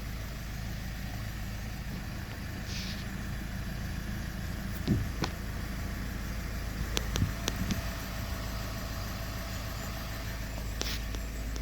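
Mazda CX-5 engine idling steadily, with a few light clicks and low knocks about five and seven seconds in.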